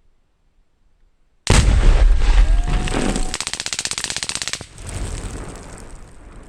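A long burst of full-automatic machine-gun fire, about fifteen shots a second for some three seconds, stopping abruptly, with a heavy boom at its start as a tannerite target goes off. A rolling echo follows.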